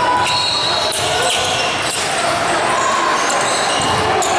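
Basketball game in a gym: the ball bouncing on the hardwood court several times, over the steady din of the echoing hall.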